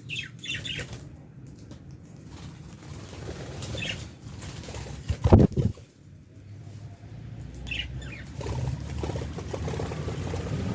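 Lovebirds in an aviary giving a few short, falling chirps, with a short, loud burst of wing flapping about halfway through.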